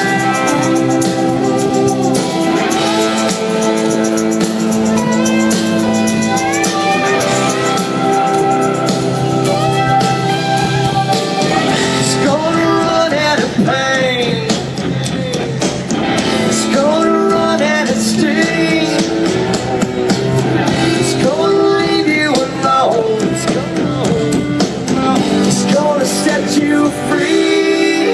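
Live country-rock band playing an instrumental break, with a lead guitar soloing over it; from about twelve seconds in the lead line grows busier, its notes bending up and down in pitch.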